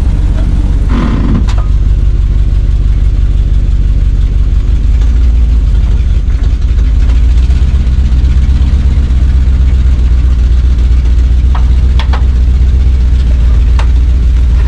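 Large truck engine running steadily at low speed as the truck pulls forward, with a few short knocks near the end.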